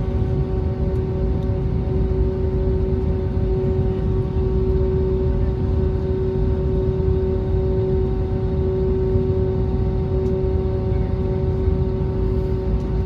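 Airbus A320neo cabin during taxi: the engines' steady hum, with one strong constant tone over a low rumble from the rolling airframe.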